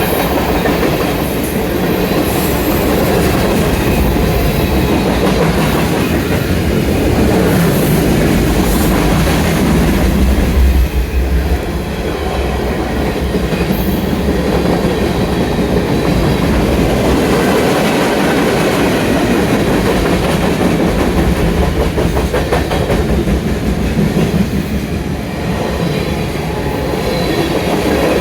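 CSX freight train cars rolling past with a steady, loud sound of wheels clicking over the rail joints.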